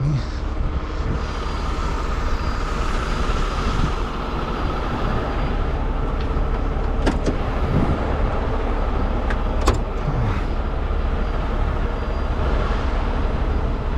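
Truck engine running steadily with a low rumble, with a few brief sharp clicks about halfway through.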